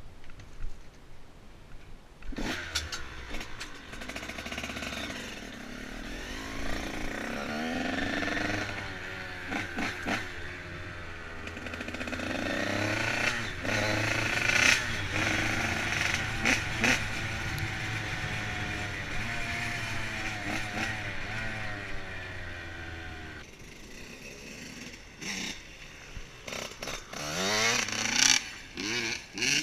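Motorcycle engine revving up and down as it is ridden, its pitch rising and falling repeatedly. It starts about two seconds in, drops away briefly near the end, then comes back with a few short, sharp revs.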